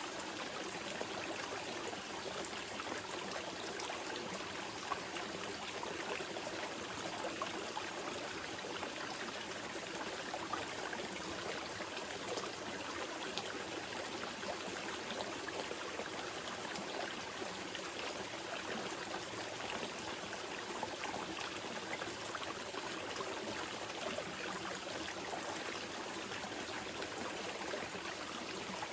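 Small river gently flowing: a steady, even rush of running water.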